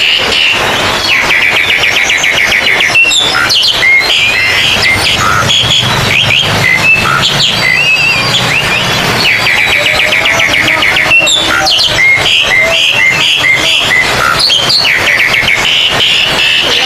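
Several oriental magpie-robins singing at once, loud and busy: a jumble of sharp whistled notes, chirps and slurred phrases, with a rapid buzzy trill that comes back three times.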